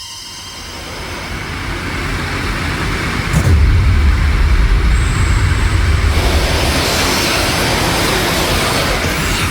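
A dense rushing noise fades in and grows steadily louder. A heavy low rumble joins about three and a half seconds in.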